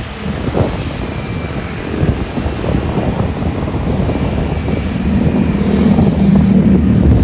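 Airliner engines rumbling as a plane passes, growing louder over the last couple of seconds.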